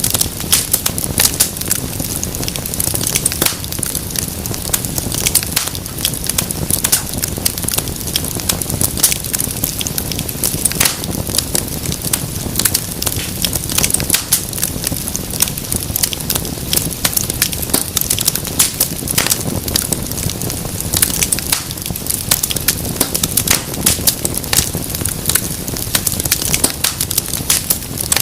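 Wood fire crackling and popping steadily, with many sharp snaps over a low rumble of flame.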